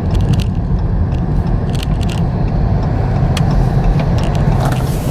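Dodge Charger Hellcat's supercharged Hemi V8 running while driving, heard from inside the cabin as a steady low rumble with road noise. A few light clicks sound over it.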